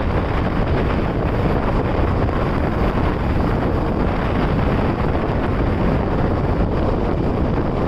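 Steady rush of wind on the microphone over the running noise of a moving passenger train.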